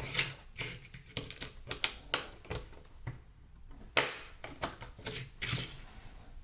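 LEGO plastic pieces being handled and pressed together: an irregular run of small clicks and taps, the sharpest snaps about two and four seconds in.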